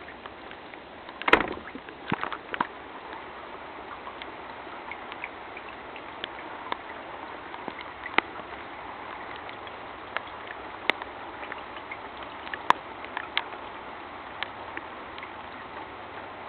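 Steady rush of floodwater, with scattered sharp knocks, the loudest about a second in.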